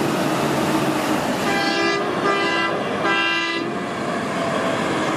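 Vehicle horn tooting three times, each under a second long, over a steady rushing noise.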